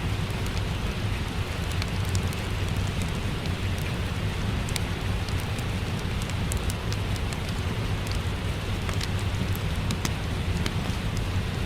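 Steady rain falling with a low rumble beneath it, and scattered sharp pops and crackles from a wood fire in a fireplace.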